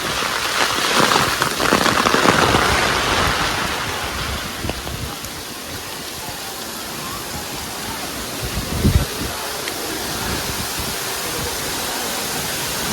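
Steady rush of falling water from a monsoon waterfall, louder over the first few seconds, with a brief low thump about nine seconds in.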